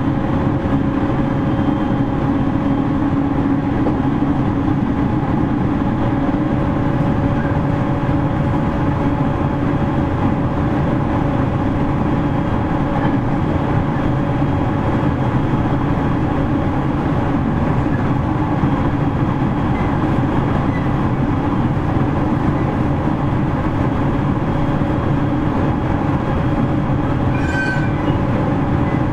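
Cabin running sound of a JR East 701-series electric multiple unit, heard from inside the KuMoHa 701 motor car, travelling at a steady speed: an even rumble of wheels on rail with a constant hum under it. A brief high squeak comes near the end.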